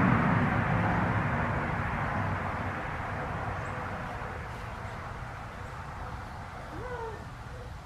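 Rumble of a passing vehicle's engine, loud at first and fading steadily as it moves away. A brief bird call near the end.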